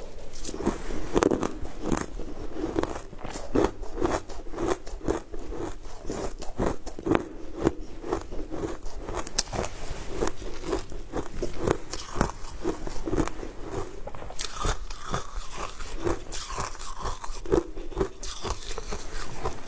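Close-up chewing and biting of crumb-coated ice dessert blocks, with a steady run of irregular crisp crunches and crackles.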